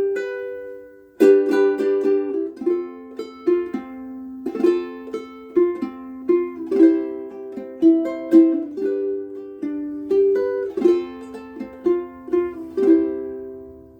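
KoAloha ukulele played by hand, a melody of plucked notes and chords that ring on. There is a short break about a second in, a new strum, and the last chord dies away near the end.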